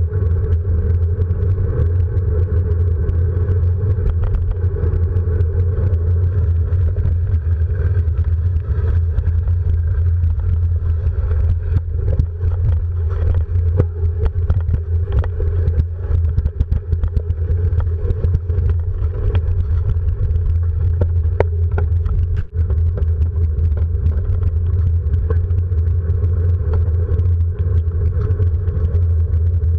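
A vehicle engine running at a steady pace under way, with frequent small knocks and rattles.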